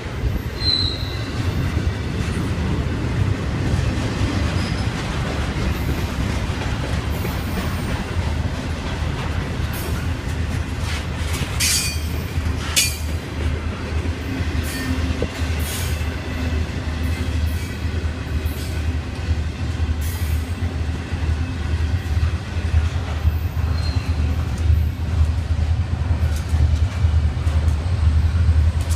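Freight train rolling past: a steady low rumble of wheels on rail, with a short high wheel squeal about a second in and a few sharp clanks around the middle.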